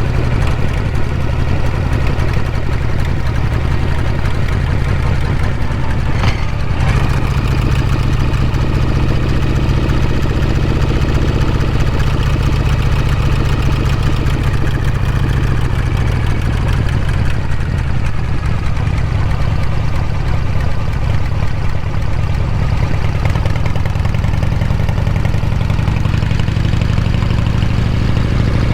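The V-twin engine and exhaust of a 1979 Harley-Davidson FXEF Shovelhead, running steadily and loud. About six seconds in there is a brief break, after which the pitch steps up; the pitch dips a little past halfway and rises again near the end.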